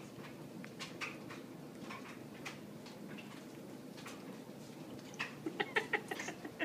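Faint light clicks and taps of tableware during a meal. Near the end comes a quick run of short, high-pitched vocal sounds.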